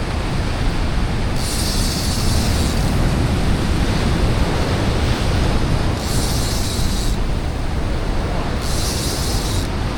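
Wind buffeting the microphone over ocean surf on a rock ledge: a steady, loud rumbling hiss, with three brief bursts of sharper high hiss.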